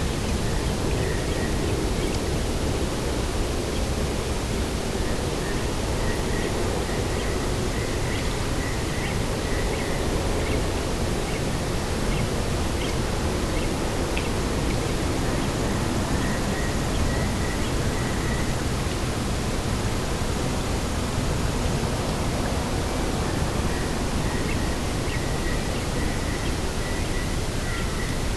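Steady, even rushing of coastal wind and sea across open ground. Faint, high chirping trills recur several times over it.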